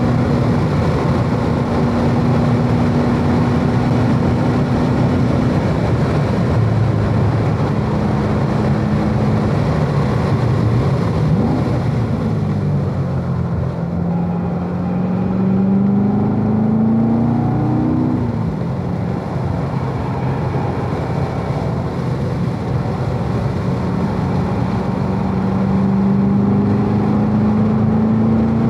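Chevrolet V8 sports car's engine heard from inside the cockpit on a track lap, over steady tyre and wind noise. It runs at speed, a short rev blip about eleven seconds in marks a downshift as the car slows for a corner, then the engine pitch climbs steadily twice as it accelerates back up through the gears.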